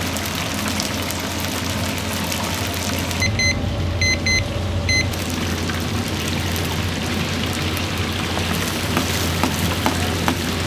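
Chicken deep-frying in hot oil, a steady sizzling and crackling over a constant low hum. A few short electronic beeps sound about three to five seconds in.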